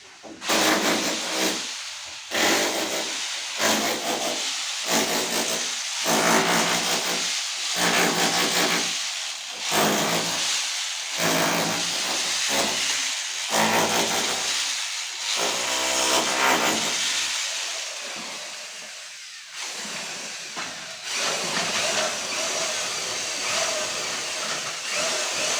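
A tool cutting through tile or stone in repeated strokes, about one a second, each a loud harsh hiss with a short break before the next.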